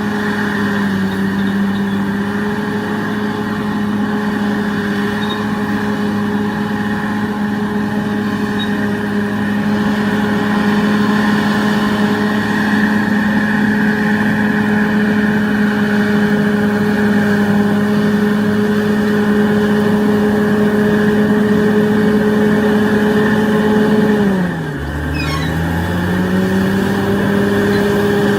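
Diesel engine of a heavy earthmoving machine running steadily at high revs. Near the end its pitch drops sharply and then climbs back up within a couple of seconds.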